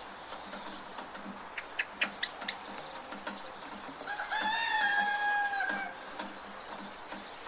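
A rooster crowing once, one long call of about two seconds that starts about four seconds in, rises, holds and drops away at the end, over a steady hiss of rain. A few short, sharp ticks come before it.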